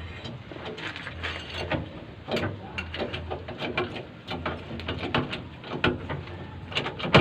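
Rapid, irregular sharp knocks and clicks, several a second, from tools working on a large truck tire and its rim. A low steady hum runs underneath.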